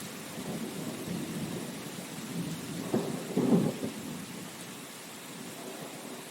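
Rain with a rumble of thunder that peaks in a couple of sharp cracks about halfway through, then dies away into the steady hiss of rain.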